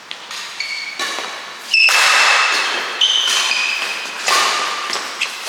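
Badminton play in a hall: sharp racket strikes on the shuttlecock, about six over the stretch, mixed with shoes squeaking on the court floor.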